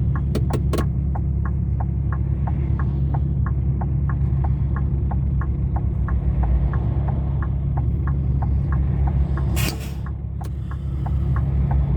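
Truck engine running, heard from inside the cab, with a steady fast ticking at about two and a half ticks a second. A few sharp clicks come in the first second, and a short burst of hiss comes near the end.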